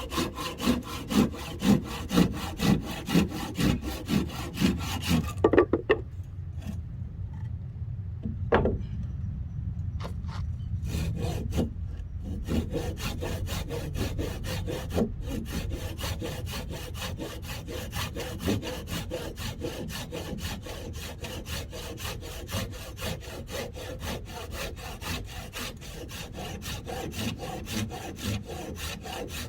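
Hand saw cutting through wood in steady back-and-forth strokes. The strokes stop for a few seconds about six seconds in, with a couple of knocks, then resume at a quicker pace.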